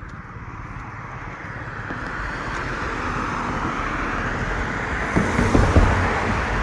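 Road vehicle noise growing steadily louder, as of a vehicle approaching, with heavy low rumbling and uneven thumps from about five seconds in.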